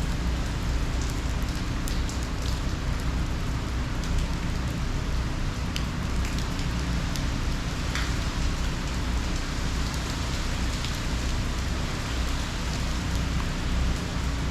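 Hurricane rain falling steadily, with scattered drops ticking sharply close by over a constant low rumble.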